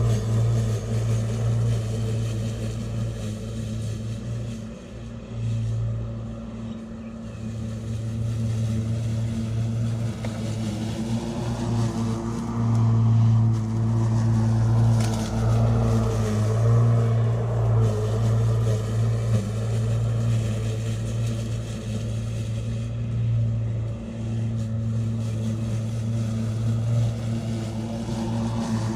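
Bosch Rotak 37 LI cordless 36 V lawn mower running while mowing grass: a steady electric hum from the motor and spinning blade, with small dips and rises in level as the load changes.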